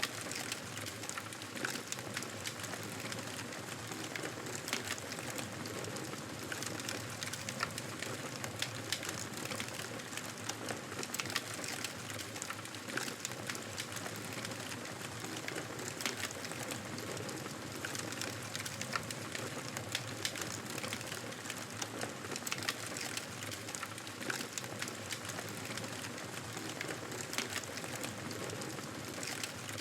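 Wood fire crackling in a fireplace: a steady soft hiss with frequent small pops and snaps scattered irregularly throughout.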